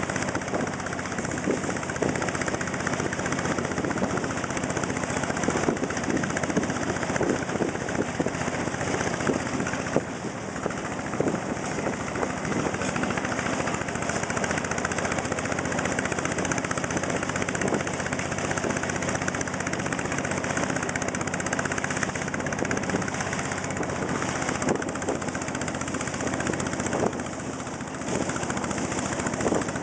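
Motor boat's engine running steadily, heard from on board over water and wind noise.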